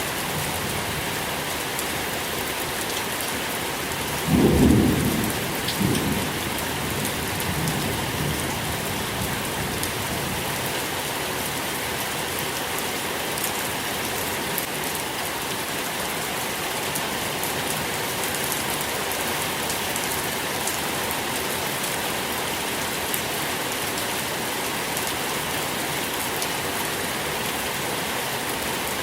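Steady rain falling, with a low roll of thunder that breaks about four seconds in and rumbles away over several seconds.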